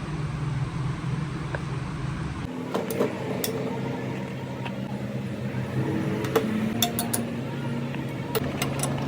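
Metal parts and tools clinking against each other a few times, sharp separate clinks over a steady low machine hum.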